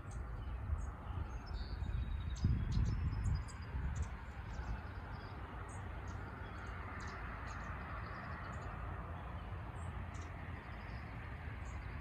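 Songbirds chirping in short, high, scattered calls over a steady low rumble, which swells briefly about two to three seconds in.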